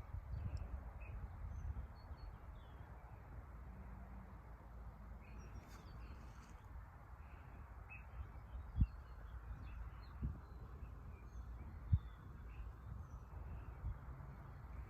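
Birds chirping faintly and intermittently over a steady low rumble, with a few dull thumps about two-thirds of the way through.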